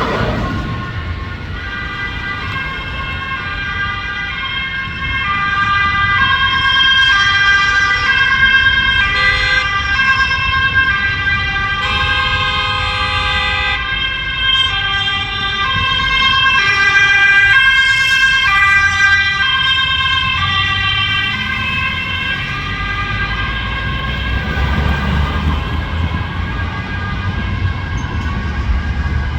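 Emergency vehicle siren sounding a two-tone pattern, stepping back and forth between a higher and a lower pitch about twice a second. It grows louder as it passes, then fades after about 22 s as a low vehicle rumble takes over.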